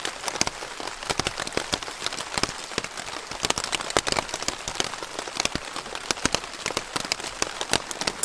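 Rain falling on a tent, heard from inside: a dense, irregular run of sharp taps from individual drops.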